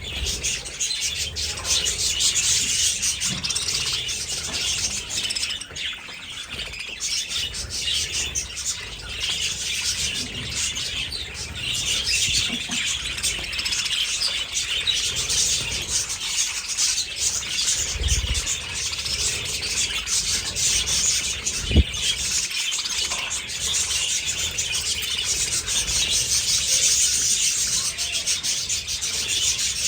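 A flock of budgies chattering and chirping continuously in a dense, overlapping chorus. A few low thuds and one sharp knock about two-thirds of the way through.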